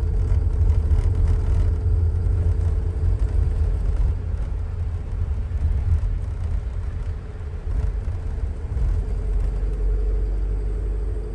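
Steady low rumble of an engine running, with a constant drone above it.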